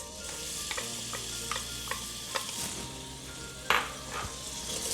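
Sliced white onions sizzling in hot canola oil in a sauce pot as they are sautéed, with a utensil clicking against the pot several times while they are stirred; the loudest knock comes about three-quarters of the way through.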